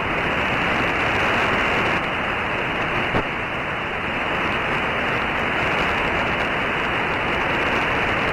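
Steady static hiss from a CB radio receiver on an empty channel, with a faint click about three seconds in. It is the receiver's open band noise between transmissions, heard through its narrow audio filter.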